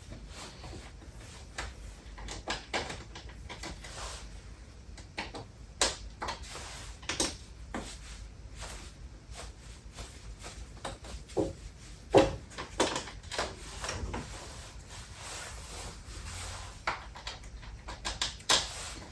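Scattered clicks, knocks and rattles of hand work with a metal Allen key, undoing the screws that hold a 3D printer's filament unit in place, with a few sharper knocks among them.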